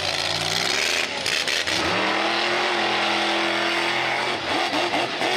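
Monster truck engine revving hard: its pitch climbs about two seconds in, holds high for about two seconds, then falls away.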